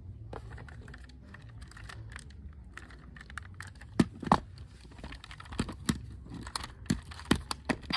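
Plastic toy cars being handled: irregular light clicks and knocks over a low hum, with two sharper knocks about four seconds in and a cluster more near the end.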